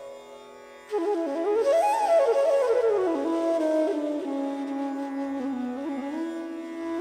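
Relaxing flute music: a flute melody enters about a second in with quick runs up and down, then settles on a long held low note over a steady drone.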